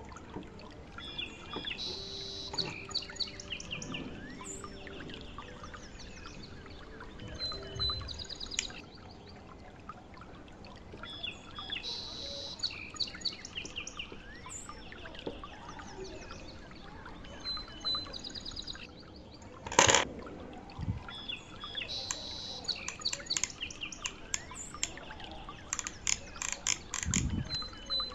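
Birds chirping and calling, the same run of chirps coming round about every ten seconds, with scattered light clicks and one loud sharp knock about two-thirds of the way in.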